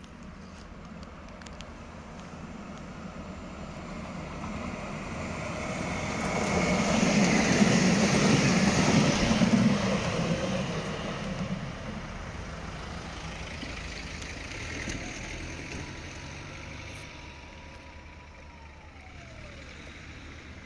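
A train passing by: a rumbling rush that builds up, peaks about seven to ten seconds in, then fades away, with a faint tone that slides down in pitch near the end.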